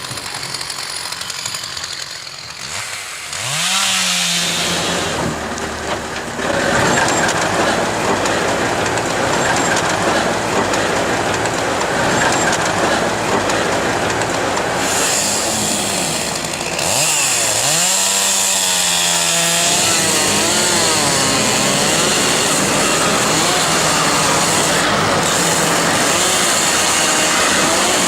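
Two-stroke chainsaw running at high throttle in timber felling. It revs up about four seconds in, eases off for a moment past halfway, then revs up again and holds steady.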